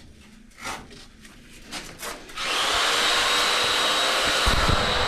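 A few light handling knocks, then about halfway through a power tool's motor switches on suddenly and runs at a steady high speed with a whine, with some low knocks near the end.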